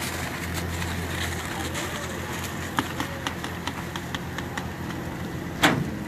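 A vehicle engine idling with a steady low hum, with scattered light clicks and one louder knock near the end.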